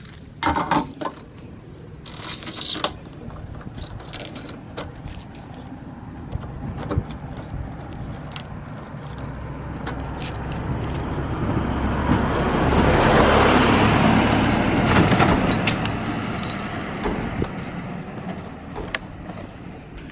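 A motor vehicle going past: its engine sound builds over several seconds, peaks, then fades away. Scattered clicks and a short rattle come in the first few seconds.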